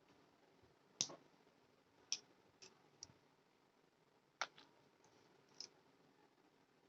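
About seven short, sharp clicks and taps at irregular intervals over near silence, the first about a second in being the loudest.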